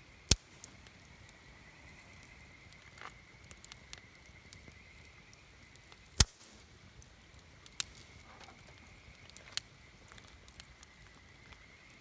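Wood campfire crackling: sparse sharp pops from the burning wood, the loudest about six seconds in, over a faint steady high tone.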